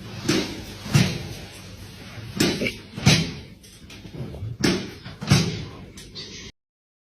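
Repeated bangs like a door or cupboard door knocking shut, in three pairs of two knocks about two seconds apart; the sound cuts off abruptly near the end.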